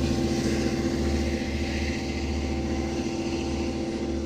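Diesel engine of an EMD DM30AC dual-mode locomotive running steadily with a low hum, gradually fading as the train pulls away.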